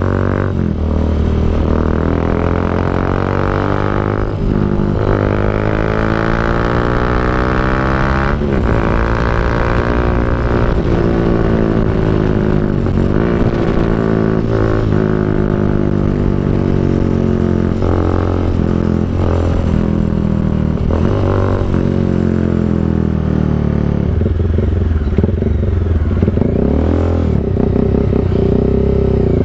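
Bajaj Dominar 400's single-cylinder engine through an aftermarket SC Project exhaust, running under way. Its pitch climbs and drops back at each upshift, about three times in the first dozen seconds, then it settles into steadier cruising with small changes in throttle.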